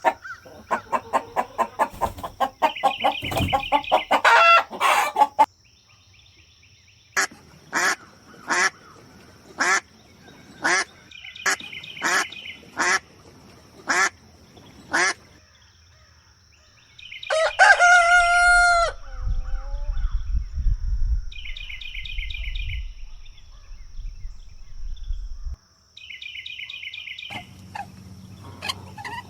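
Chickens calling: rapid repeated clucking, then a string of short sharp calls, then a single long rooster crow about two-thirds of the way through.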